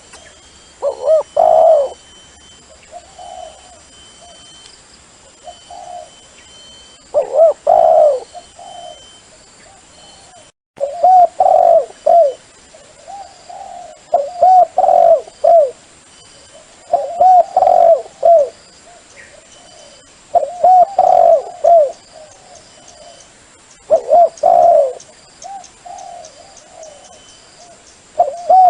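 Dove cooing in repeated phrases, each a short run of coos, about every three to four seconds, with softer coos between. A faint steady high-pitched tone runs beneath.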